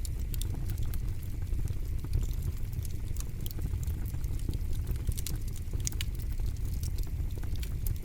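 Campfire crackling: irregular sharp pops and snaps over a steady low rumble, with one louder pop about six seconds in.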